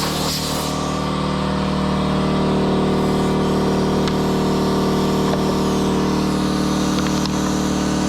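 Air compressor motor running steadily, with a blast of air from the blow-off hose cutting out about a second in.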